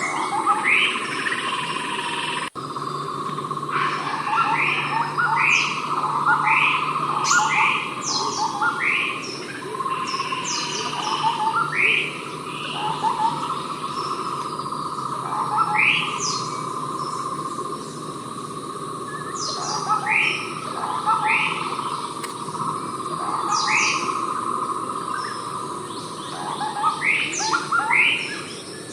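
Javan scimitar babbler calling: short rising whistled notes in quick runs of three to five, repeated again and again. A steady insect drone runs underneath.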